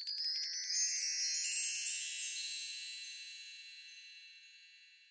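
Shimmering chimes: a quick run of many high tinkling tones that climbs in pitch over the first two seconds, then rings on and fades away.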